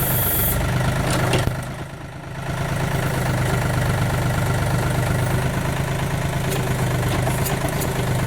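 Backhoe's diesel engine running steadily under the operator's work, a constant low hum; the sound dips briefly about two seconds in and then returns.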